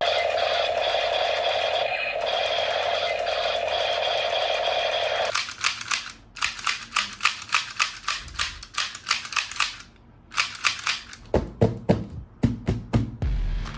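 Battery-powered toy sound effect: a steady electronic buzz for about five seconds, then a run of rapid sharp clicks, about five a second, broken by a short pause near ten seconds in.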